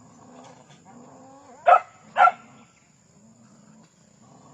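Street dog barking sharply twice, about half a second apart, a little under halfway through.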